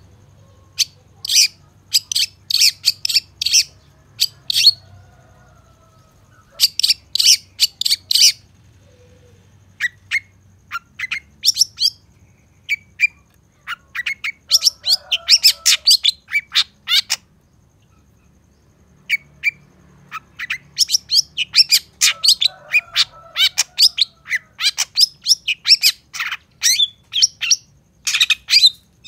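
Long-tailed shrike (cendet) singing: rapid runs of sharp, scratchy high notes in bursts of a few seconds, separated by short pauses, with softer lower warbles now and then.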